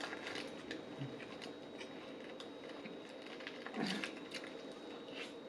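Close-miked chewing of food, with scattered small wet mouth clicks and a louder smack about four seconds in.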